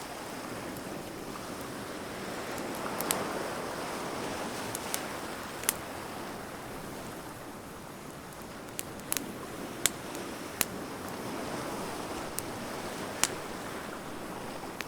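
Wood bonfire crackling, with scattered sharp pops and snaps, over a steady rush of surf that swells and eases.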